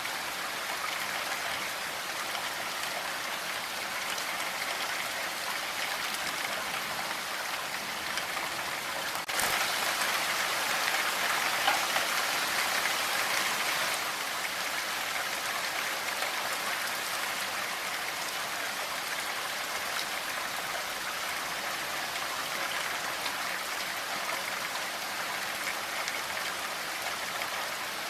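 Steady rain falling, an even hiss of drops. It turns a little louder suddenly about a third of the way in for some five seconds, then settles back.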